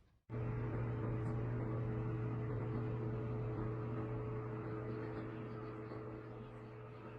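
A steady low machine hum with a few steady tones over a rushing noise, starting suddenly just after the start and slowly fading.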